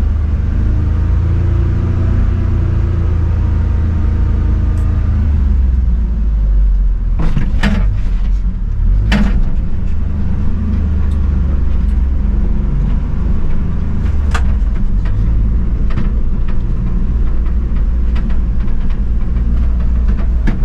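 Mitsubishi Minicab kei truck's 660cc three-cylinder engine running while the truck is driven, its pitch climbing over the first few seconds and then dropping. A few sharp knocks or clunks come about seven to nine seconds in, and once more later.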